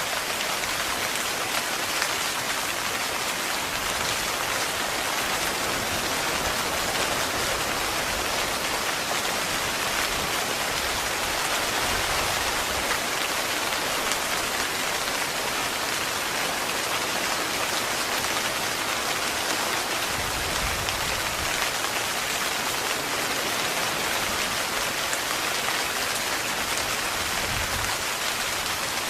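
Heavy rain falling steadily on a tent, a dense, even patter of drops on the fabric.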